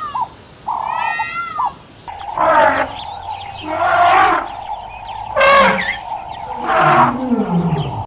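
A bleat with a wavering pitch in the first second or so, then a different large animal calling loudly four times about a second and a half apart, the last call sliding down in pitch.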